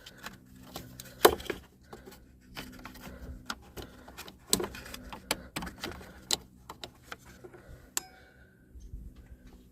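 Metal jump-starter clamps clicking and rattling as they are handled and clipped onto the car battery terminals, a string of sharp clicks with the loudest a little over a second in.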